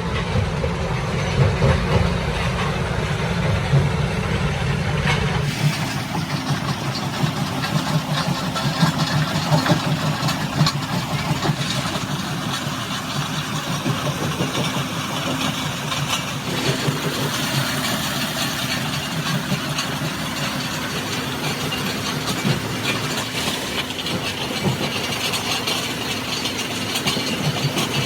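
Steady noise of running machinery, changing abruptly about five and a half seconds in, when the deep bass drops out.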